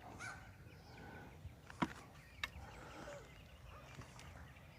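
Faint chirping of small wild birds, with two sharp clicks about two seconds and two and a half seconds in.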